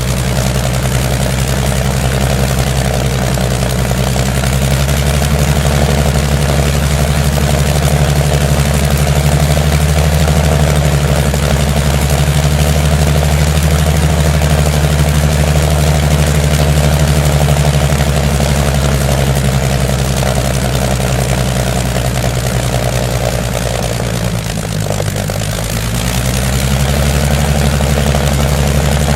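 An engine running steadily at low speed, its pitch edging up slightly about five seconds in, then sagging briefly in the last few seconds and picking back up.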